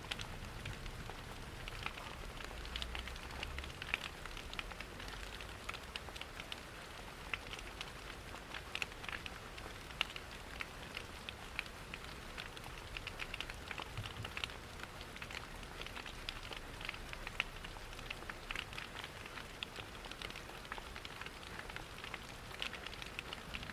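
Steady rain patter mixed with a crackling fireplace: an even hiss dotted with many small, irregular pops and crackles.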